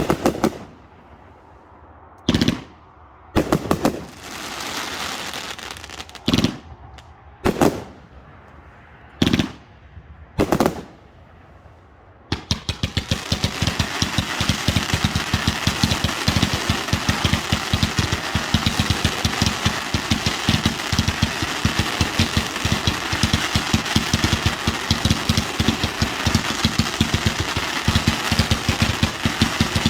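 Consumer fireworks: single sharp bangs every second or two, with a stretch of hissing crackle about four seconds in. From about twelve seconds in, a dense, continuous run of rapid crackling pops takes over.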